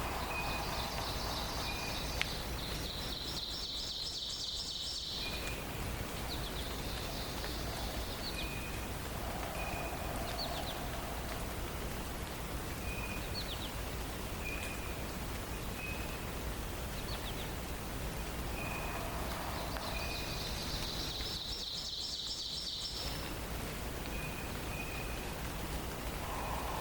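Songbirds of a forest dawn chorus over a steady background hiss. One bird repeats a short high note every second or two. A trilled song sounds near the start and again about twenty seconds in, with a few quick chirps between.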